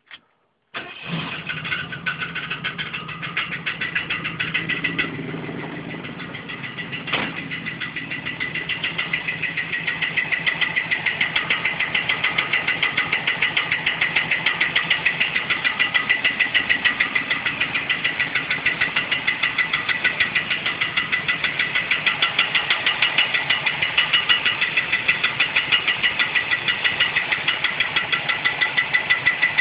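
Freshly installed small-block Ford V8 in a 1969 Mustang starting for the first time about a second in, then running with a rapid, even knocking and a steady high ringing tone over it. The owner cannot find the cause of the ringing/knocking and wonders whether it comes from the automatic transmission.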